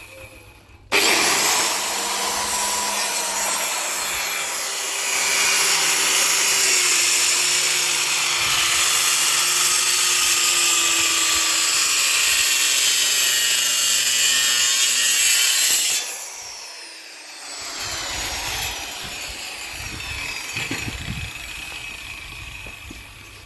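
Electric power tool cutting wood. The motor whines up to speed about a second in, cuts steadily, then cuts off and winds down about two-thirds of the way through, leaving quieter rough working noise.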